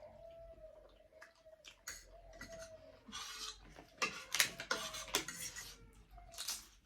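Eating utensils clinking and scraping against a plate or bowl during a meal of noodles and momo, with a quick run of sharp clicks about four seconds in.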